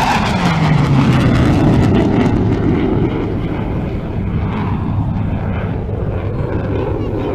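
Military aircraft flying past, its engine tone sliding steeply down in pitch as it goes by, then a loud rumble that slowly eases off.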